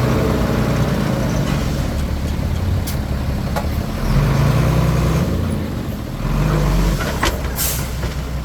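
Komatsu D21P crawler bulldozer's diesel engine running continuously, swelling and easing under changing load as it works. A few short sharp noises break through, the strongest near the end.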